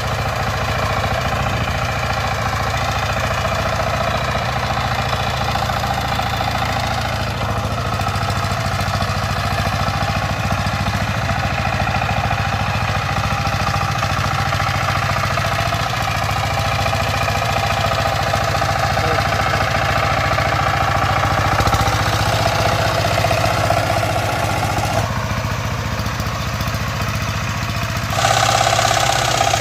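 Power tiller engine running steadily, growing louder near the end.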